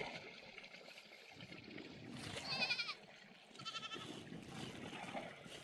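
Farm livestock bleating: two wavering bleats about a second apart near the middle, the first louder.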